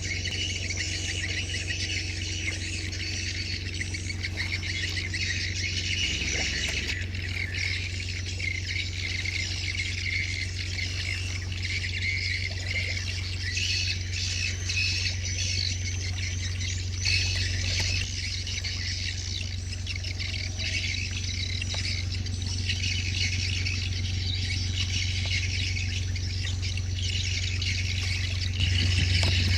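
A dense, continuous chorus of small chirping birds over a steady low hum.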